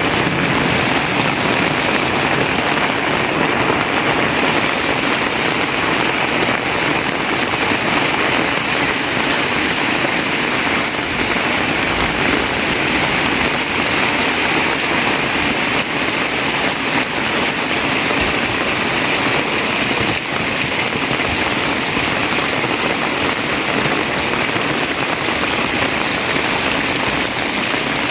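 Heavy rain pouring down steadily, drops hitting surfaces in a dense, even hiss.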